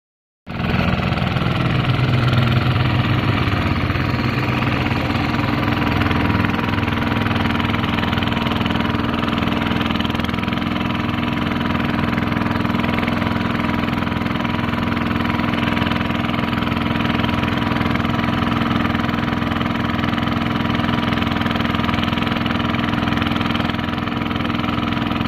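Paddy-field tractor's diesel engine running at a steady speed, starting about half a second in.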